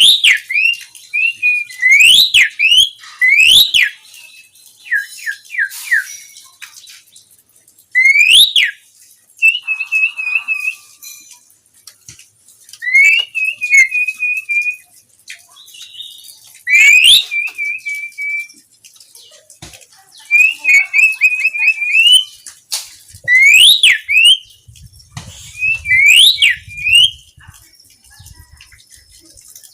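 Pied starling (jalak suren) singing: loud whistled phrases of quick rising and falling notes and short warbled trills, repeated every couple of seconds.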